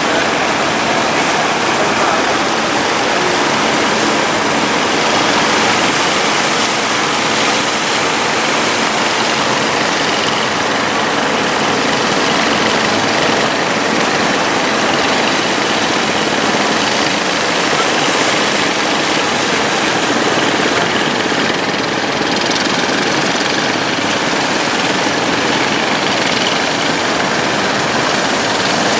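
A fishing boat's engine running steadily, mixed with the rushing noise of rough sea and wind.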